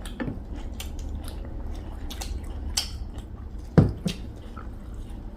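Wet chewing and mouth smacks of people eating pork with mustard greens and rice, with scattered small clicks. A louder knock comes about four seconds in.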